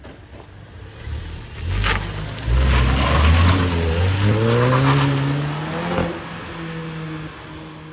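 A car engine accelerating, its pitch rising steadily for several seconds and then holding at a steady note.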